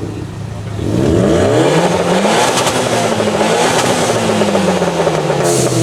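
Modified car's engine revved hard from idle about a second in and held at high revs, its pitch wavering, with rapid crackling from the exhaust: a two-step launch limiter being run for loudness.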